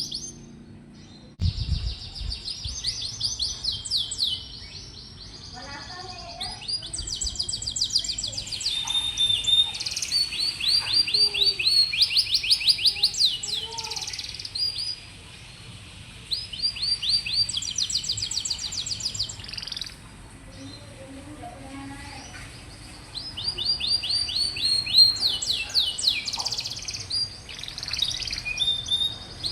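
Domestic canary singing: phrases of rapid, high repeated trills, one after another, with short pauses between stretches of song.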